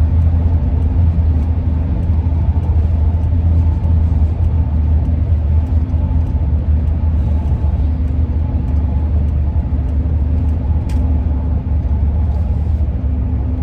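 Cabin noise of a 2001 Ford E-350 van on the move: a steady low road and engine rumble, with a fainter hum that fades in and out over it.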